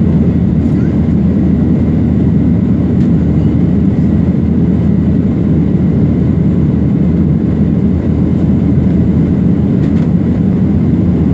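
Airplane engines running during takeoff: a steady, loud, low rumble with a faint steady whine above it.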